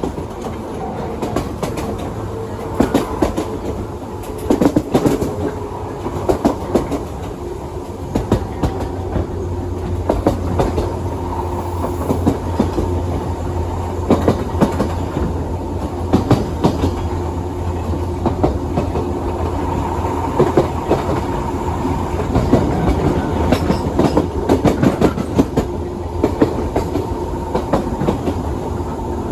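A JR 117 series electric train running, heard from inside the carriage: a steady hum from the traction motors and gears, with the wheels clacking over rail joints in clusters every few seconds.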